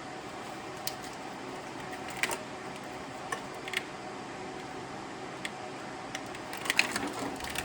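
Light clicks and taps from a wiring harness and its plastic connectors being handled over an engine, a few at a time and then a quick cluster near the end, over a steady fan-like hum.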